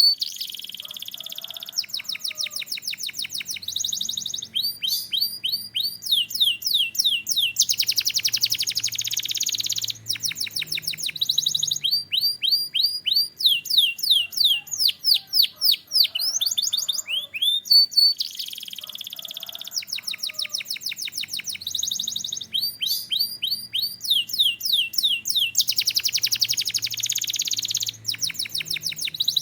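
Canary singing a continuous song of fast trills and rapid runs of repeated down-sweeping notes, with a faint low hum beneath.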